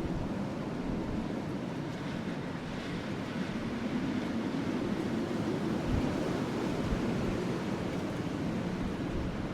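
A wood fire burning steadily under a steady low rush of wind, with a few faint pops from the firewood.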